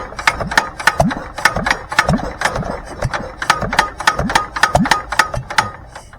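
International Harvester McCormick-Deering LB single-cylinder engine running with a sharp, even clatter about four times a second, then fading and dying away near the end.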